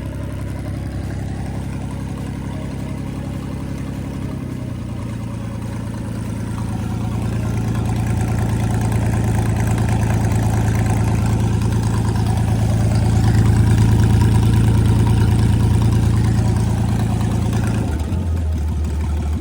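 Freshly overhauled Chris-Craft Model W marine engine, a marinized Hercules WXLD inline six, running warmed up. It idles, is brought up to a higher steady speed about four to five seconds in and grows louder, then drops back to idle near the end.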